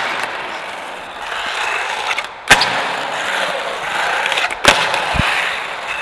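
Skateboard fitted with bare bearings instead of wheels, rolling along the ground with a steady gritty rolling noise. Two sharp board cracks come about two and a half seconds in and again past the four-and-a-half-second mark, followed by a duller thud.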